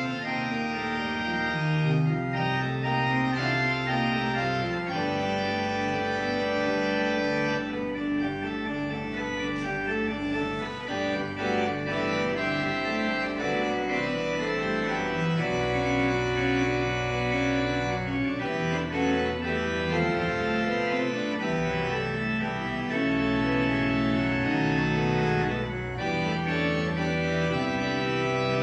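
Church organ playing a piece in sustained full chords over a bass line on the pedals that moves every second or two.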